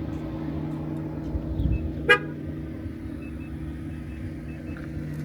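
A motor vehicle running steadily, with one short car-horn beep about two seconds in.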